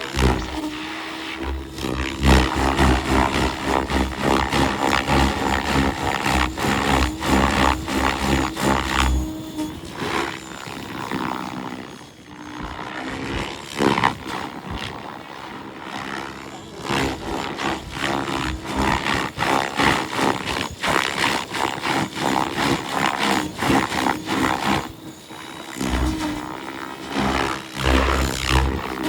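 XL Power Specter 700 NME RC helicopter in flight, its nitro engine and main rotor running with a steady pitched tone and loudness that swells and pulses as it manoeuvres, dipping briefly near the middle. Heavy low rumble comes and goes over it.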